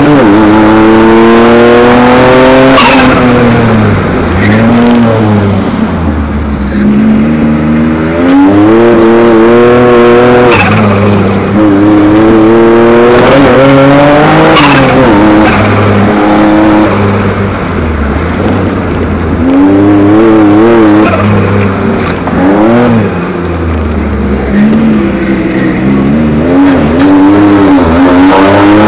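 Ford Capri Turbo's engine heard from inside the cabin, revving up hard and falling back repeatedly as the car is driven on a course.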